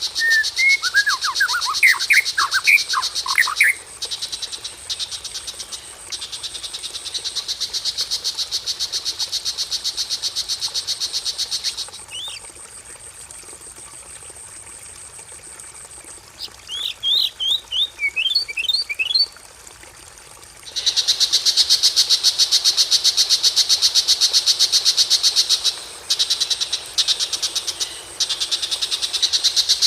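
Bird-training track of white-rumped shama and long-tailed shrike song: bright whistled phrases of sliding notes at the start and a quick run of rising notes about two-thirds through, alternating with long, loud, very rapid pulsed trills. A faint steady wash, the running water of the track, lies underneath.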